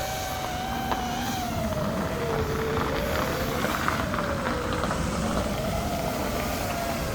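FPV racing quadcopter's brushless motors (Emax RS2205S 2300KV) whining in flight, the pitch slowly wavering up and down with throttle.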